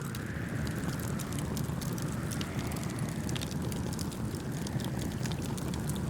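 Wood campfire crackling with frequent sharp pops over a steady low rumble, with a soft whooshing wash that swells and fades every two to three seconds.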